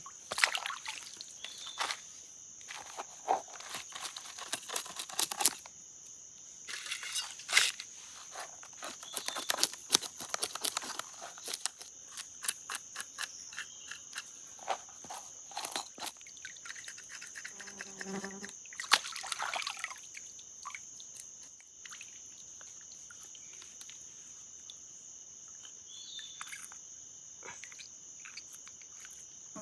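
Steady high-pitched chorus of crickets and other insects, with many knocks and rustles of handling over roughly the first twenty seconds, then the chorus alone.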